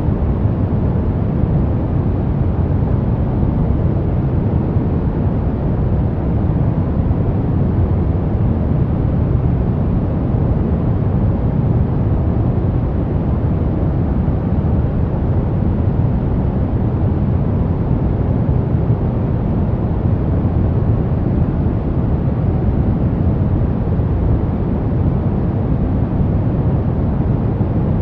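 Steady pink noise: a constant, even rushing hiss weighted toward the low end, with no change in level.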